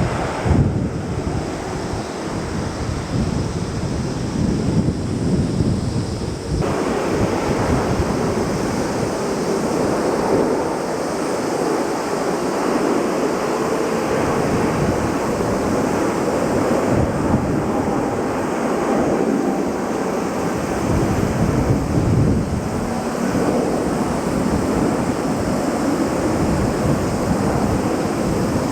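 Jet airliner engines running as a steady rush of noise, growing fuller about six seconds in, with wind buffeting the microphone.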